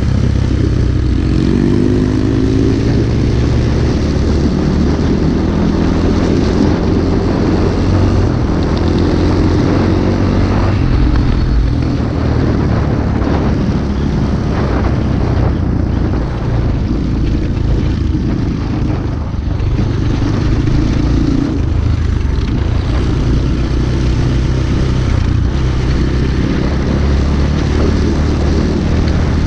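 Small pit-bike engine running steadily while riding, its pitch rising and falling a little in the first few seconds.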